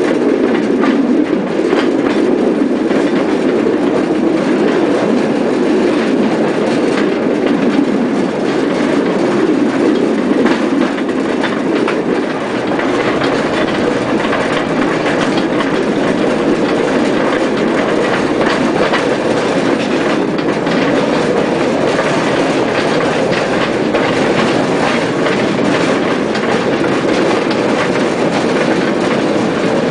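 18-inch gauge light railway train running along the track, heard from on board: a steady rumble of wheels on rail with a continual patter of small clicks from the rail joints.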